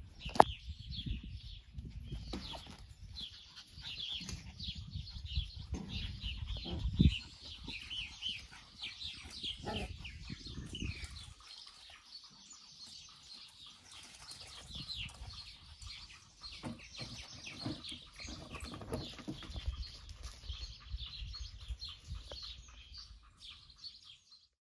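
Small birds chirping rapidly and continuously, over a low rumble on the microphone that comes and goes. A sharp click sounds near the start and a louder thump about seven seconds in.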